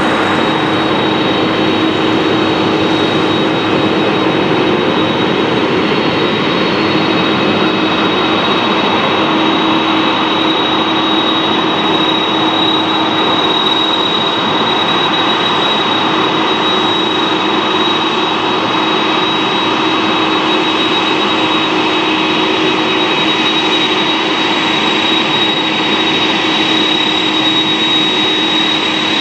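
Lufthansa Boeing 747-400's jet engines running steadily, a constant rush of engine noise with a steady high whine and a lower hum, neither rising nor falling.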